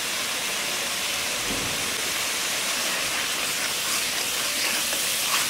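Spice paste frying in oil in a pan, a steady sizzle while the masala is cooked down.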